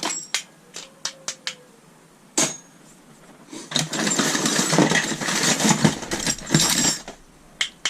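Screws and small metal scrap clinking in a box as it is rummaged through: a few sharp clicks, one louder knock, then several seconds of continuous rattling and jingling before it drops back to single clicks.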